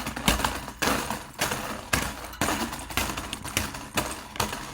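Slinky coils clattering and slapping together as the spring is shaken back and forth and side to side, a chaotic mix of compression and transverse waves. There are sharp clacking hits at about two a second, stopping just before the end.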